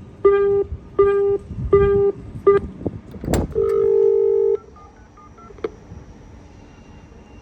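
Train door-closing warning: a run of short electronic beeps, about one every three-quarters of a second, then a knock about three seconds in and a longer two-note tone lasting about a second.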